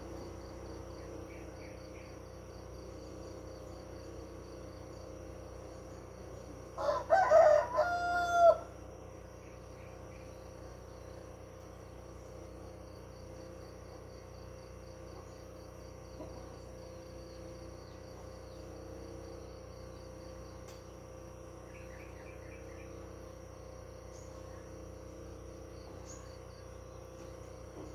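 A rooster crows once, about seven seconds in, for under two seconds; it is the loudest sound. Behind it insects trill steadily, with a few faint short bird chirps.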